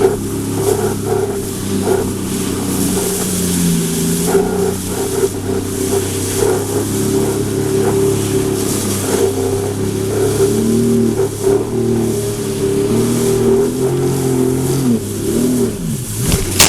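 Sea-Doo 4-TEC personal watercraft's four-stroke engine running under throttle, its pitch shifting up and down, with a steady hiss over it.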